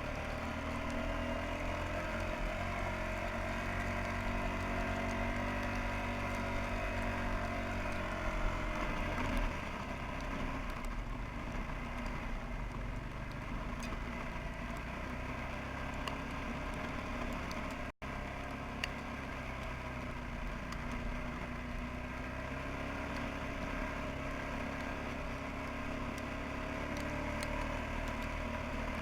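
Suzuki QuadRunner 300 ATV engine idling as it warms up after a cold start in deep snow. The idle swells a little for the first several seconds, then settles to a steady lower note, with a split-second dropout about eighteen seconds in.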